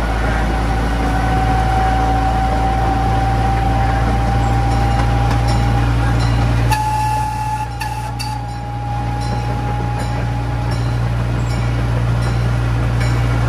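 Park railroad train running along the track with a steady low drone and a high whine that rises slowly, dips in pitch briefly about halfway through and fades out. The low drone eases off for a few seconds in the middle, and light regular clicks come about every half second.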